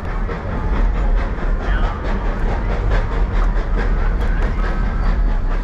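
Narrow-gauge passenger train rolling along the track: a steady low rumble with the clatter of wheels over rail joints.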